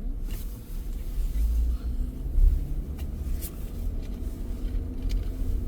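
Car driving along, a steady low road rumble with a faint engine hum heard from inside the cabin.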